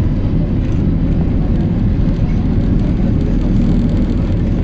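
PAZ-320405-04 "Vector Next" city bus under way: steady engine drone and road rumble.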